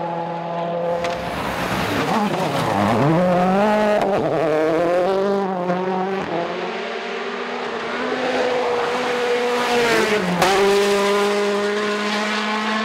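A World Rally Car's 1.6-litre turbocharged four-cylinder engine revving hard, its pitch dropping sharply about two seconds in and again about ten seconds in before climbing back up, over the rush of tyres on gravel.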